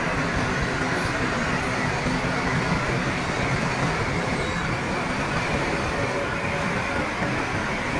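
Heavy earthmoving machine's diesel engine running steadily under work, a constant rumble with no breaks.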